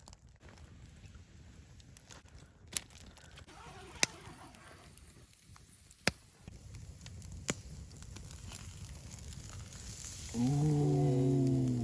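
A few sharp knocks at irregular intervals, then near the end a person's long, loud vocal sound, a held groan or cry lasting about a second and a half.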